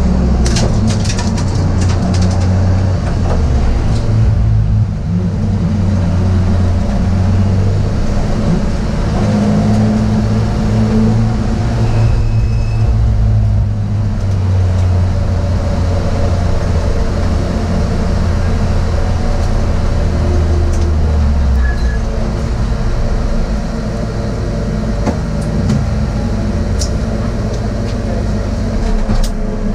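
BMW M3 race car's engine heard from inside the stripped cabin, running at low, steady revs at pit-lane speed, with a few clicks and rattles near the start. The engine note drops lower about three quarters of the way through as the car slows toward a stop.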